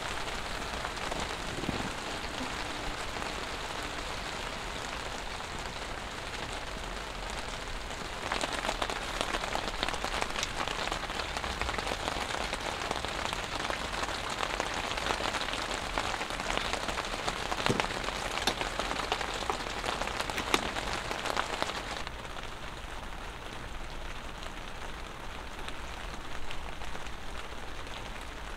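Rain pattering steadily on a tent's fabric, heard from inside the tent; it grows heavier and denser from about eight seconds in and eases back again a little after twenty seconds.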